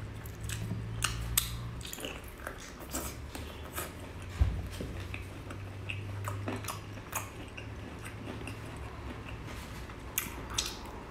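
Chewing and mouth noises of a person eating crab meat, with many small sharp clicks scattered through and one thump about four seconds in. A low steady hum lies underneath.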